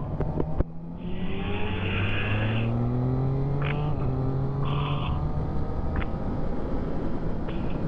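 Triumph Street Triple 675's three-cylinder engine pulling under acceleration, its note rising over a few seconds. There is a brief break about four seconds in, then a steady note over wind rush.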